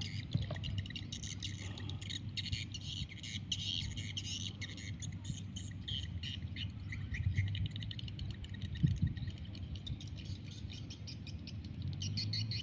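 Small birds chirping, with many short overlapping calls all the way through, over a low steady rumble.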